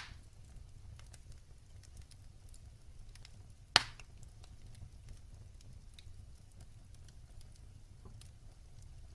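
Wood fire crackling in a fireplace: a low steady rumble of flame with scattered small ticks, and a loud sharp pop about four seconds in.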